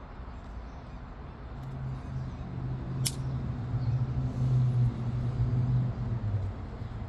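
A single sharp crack about three seconds in, a percussion blow knocking a flake off an obsidian point being knapped. Underneath is a low, steady hum that grows louder through the middle and is the loudest sound here.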